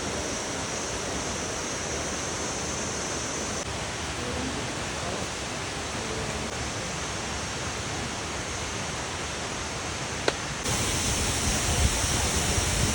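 Waterfall rushing, a steady, dense noise of falling water. About ten seconds in there is a single click, and the water sound then grows louder and brighter.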